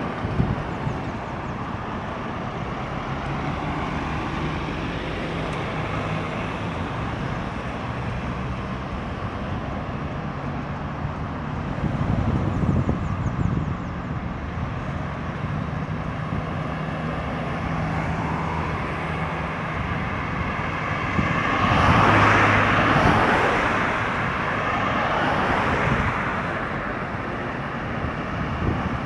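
Road traffic: a steady mix of vehicle engines and tyre noise, with a louder rush about three-quarters of the way through as a vehicle passes close by.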